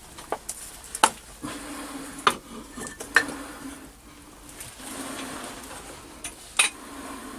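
A few sharp metal-on-metal clinks, spaced irregularly, with lighter scraping and handling noise between them.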